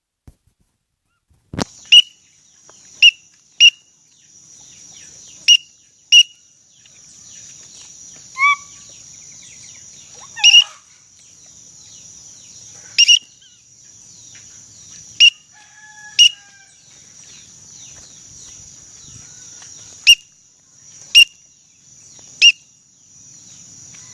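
A click, then about a dozen short, sharp, high-pitched pips at irregular intervals, each one loud and brief, over a steady high hiss. A couple of lower chirps fall in between, around the middle.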